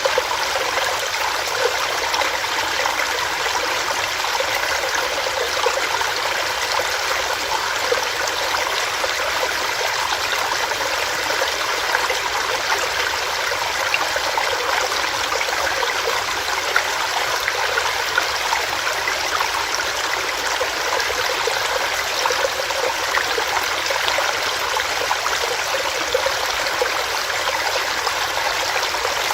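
Small stream running over rocks: a steady rush of water with light splashing and bubbling.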